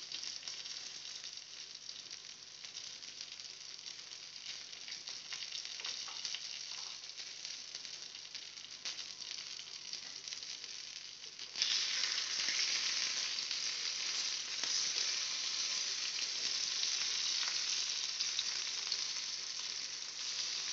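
Stuffed eggplant slices sizzling in shallow sunflower oil in a frying pan. The sizzle is steady and turns suddenly louder about halfway through.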